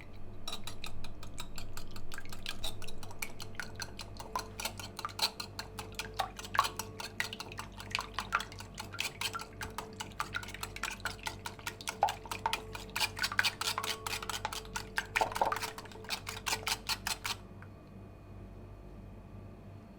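A utensil clicking rapidly against a dish while stirring, the clicks stopping about 17 seconds in.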